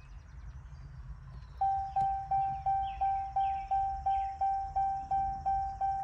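Ram truck's dashboard warning chime starts about one and a half seconds in and repeats evenly, about three dings a second, as the ignition is switched on with the engine not started. Under it is a low steady hum.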